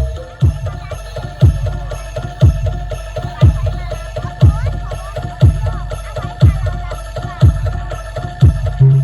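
Bantengan accompaniment music from a traditional percussion ensemble: a deep drum beats about once a second, each hit dropping in pitch, over a steady held tone and lighter, faster percussion.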